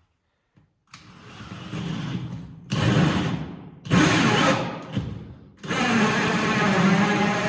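Drill driving a Diablo 2-5/8 inch hole saw, cutting in about four bursts with brief pauses between trigger pulls.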